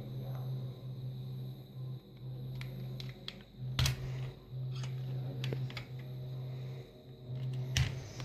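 Scattered small clicks and a sharper knock about four seconds in, like objects being handled and set down, over a steady low hum.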